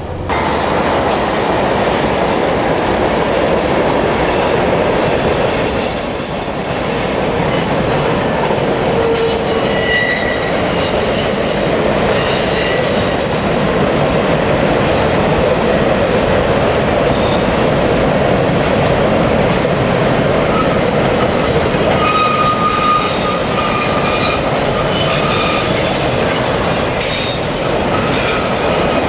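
CN intermodal freight train rolling past, a loud steady rumble of steel wheels on rail. Thin high-pitched wheel squeals come and go throughout, with some clickety-clack.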